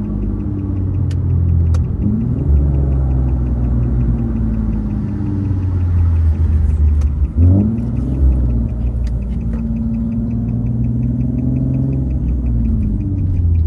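Infiniti G37's full-bolt-on 3.7-litre V6 with a loud exhaust, running steadily at cruising speed. The engine note rises briefly about two seconds in and again about halfway through.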